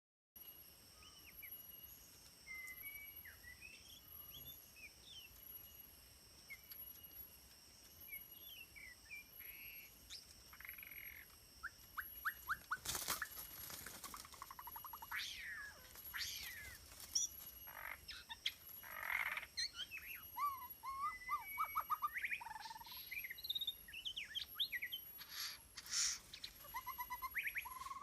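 White-rumped shama (murai batu) singing: a varied run of short whistled notes, slurs and chatters, sparse at first and busier and louder from about halfway. Faint steady high tones sound underneath, and a short harsh noisy burst comes a little before the middle.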